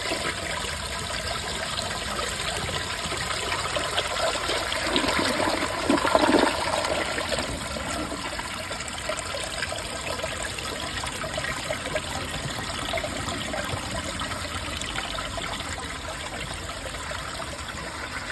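2004 Briggs Altima toilet flushing: water rushes steadily through the bowl from its three big jets and rim jets.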